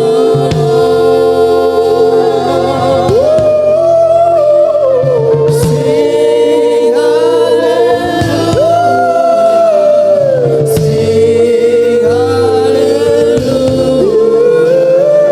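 Gospel worship singing: a lead voice holding long, wavering notes that slide up and down, over steady keyboard-style chords, with other voices joining in.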